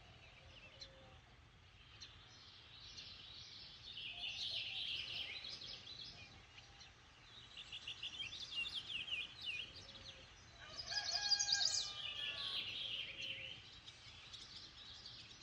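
Several birds chirping and singing over each other, with a louder, rapid run of calls about eleven seconds in.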